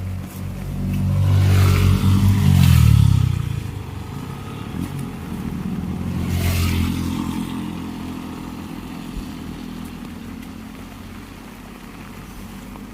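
A motor vehicle drives past close by, its engine swelling to the loudest point about three seconds in and dropping in pitch as it goes by. A second, softer vehicle pass follows about six seconds in, over steady heavy rain.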